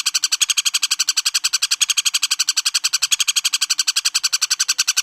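Woodpecker (pelatuk bawang) giving a long, even rattling call of about twelve rapid notes a second, which cuts off abruptly at the end.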